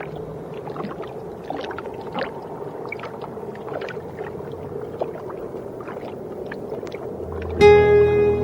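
Steady low watery rush with scattered faint clicks and pops. Music with held tones comes in near the end.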